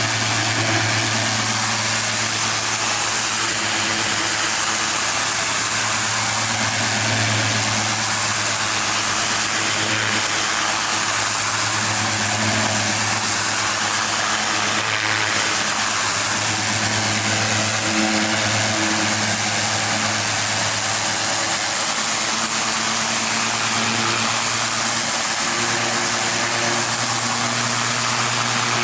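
Pressure washer engine running steadily at a constant speed, with an even hiss over its low hum.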